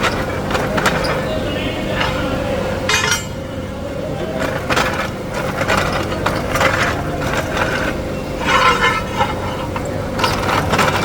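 Workshop machinery running with a steady hum, with repeated sharp metal clanks and knocks from parts being handled or worked.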